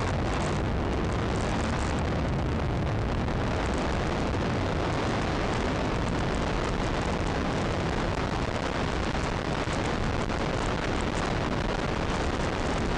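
Steady wind rush buffeting the microphone over the running engine and road noise of a Yamaha motorcycle cruising at road speed.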